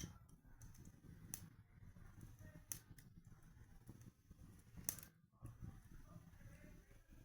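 Wood fire in a fireplace crackling: a handful of sharp, separate pops a second or so apart over a faint low rumble of the burning fire.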